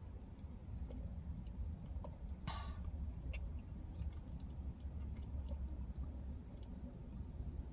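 Quiet chewing with soft mouth clicks over a low steady rumble inside a parked car, with one short pitched sound about two and a half seconds in.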